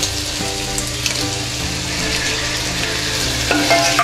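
Sliced onions, green chillies and curry leaves frying in hot oil in a steel kadai: a steady sizzle. Near the end, chopped tomatoes are tipped into the pan.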